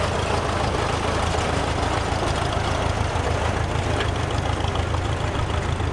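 Antique farm tractor engine running steadily at low speed, a continuous low engine sound.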